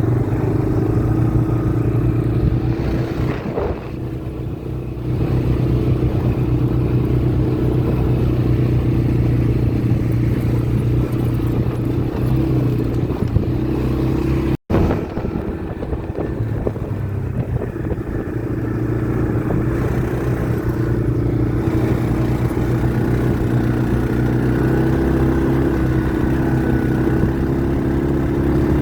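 ATV engine running steadily under way, its note holding level with a slight dip in loudness about four seconds in. The sound drops out for an instant about halfway through.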